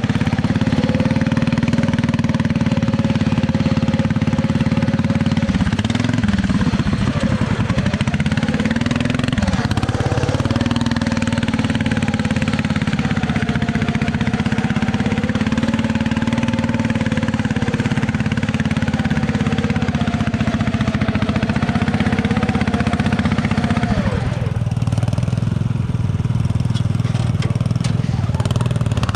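ATV engine running at a steady throttle. Its pitch dips and rises a few times, then drops to a lower note about 24 seconds in.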